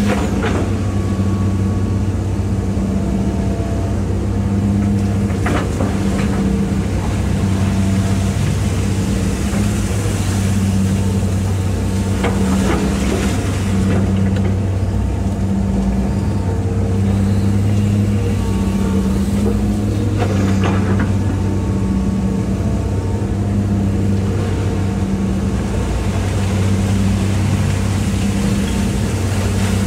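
Hitachi EX200-5 excavator's diesel engine running steadily while digging, its hum swelling and easing every few seconds as the hydraulics take load.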